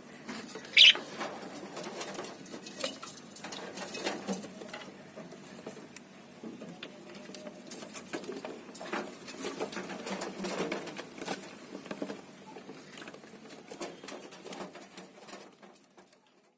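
Small pet parrots in a cage, with a steady run of soft taps, scratches and pecks and one loud, short chirp about a second in.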